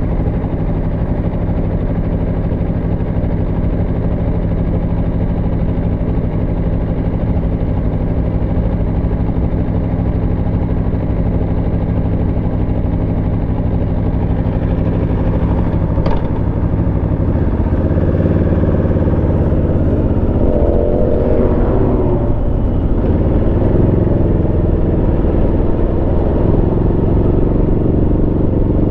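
Aprilia Tuono V4 motorcycle's V4 engine running at a steady pace under way. A sharp click comes about 16 s in. After that the engine note wavers up and down for a few seconds, then settles at a steady, slightly louder pitch.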